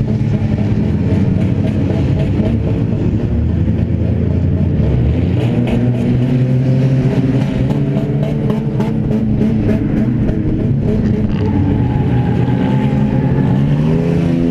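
Engine of a stripped-out beater race car running hard on the track, heard from inside the bare cabin, its pitch rising and falling with the throttle. Through the middle, a series of sharp rattling clicks, about three or four a second, sounds over the engine.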